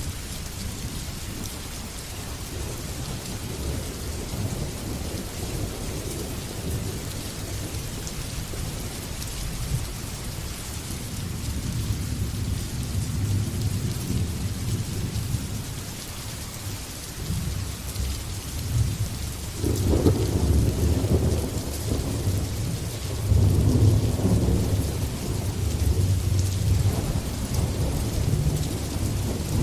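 Steady heavy rain with rolling thunder. The thunder rumbles low through the first half, then breaks into louder rolling peals about twenty seconds in and again a few seconds later.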